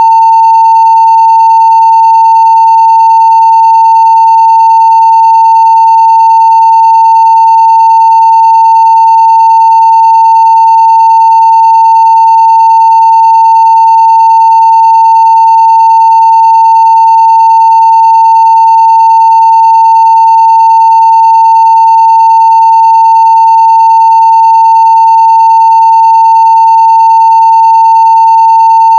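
Continuous 900 Hz sine-wave test tone at full scale (0 dB): a single steady, loud pitch that never changes, with very faint higher overtones.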